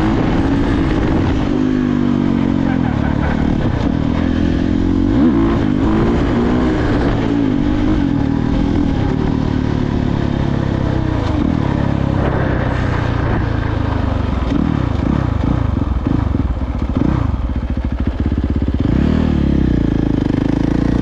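Dirt bike engine running and revving, its pitch rising and falling throughout, with quicker swings of revs in the later part.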